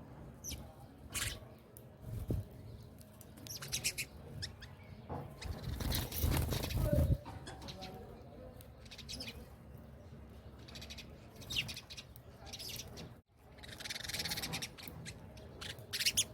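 Small pet birds chirping in short, repeated high calls as they squabble over food, with a louder noisy burst about five to seven seconds in.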